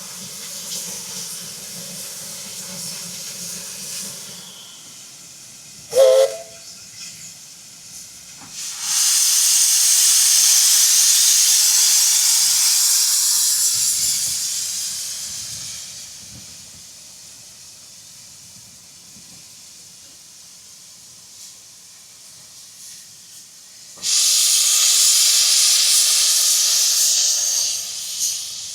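Steam locomotive letting off steam: two long, loud hisses, the first fading away over several seconds and the second cut off short near the end. A brief loud sharp sound comes about six seconds in.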